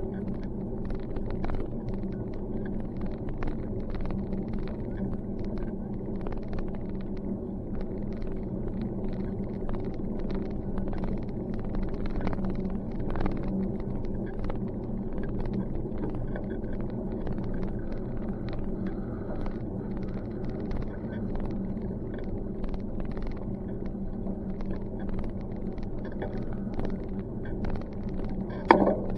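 Steady rumble of a bicycle rolling over pavement, with many small rattles and clicks. There is a sharp knock near the end.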